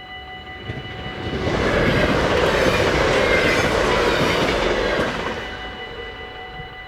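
A train passing over a railway level crossing: its rushing wheel and track noise swells about a second in, holds for some four seconds and fades away. Throughout, the crossing's warning bells ring steadily.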